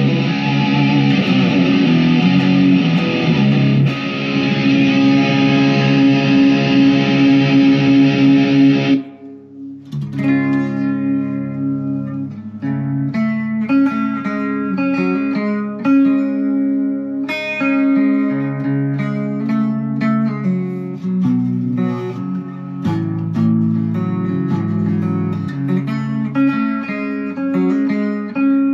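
Chapman SAR63 electric guitar played through an amp. For about nine seconds it plays dense, distorted riffing. It stops suddenly, and after a short dip a cleaner passage of picked single notes and chords follows.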